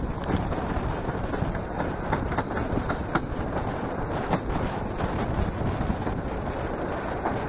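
EN57 electric multiple unit running along the line, heard from an open window: a steady rumble of wheels on rail and rushing air, with irregular clicks of the wheels over the track.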